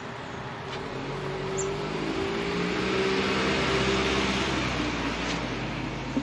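A motor vehicle's engine passing on the road, growing louder to a peak about halfway through and then easing off.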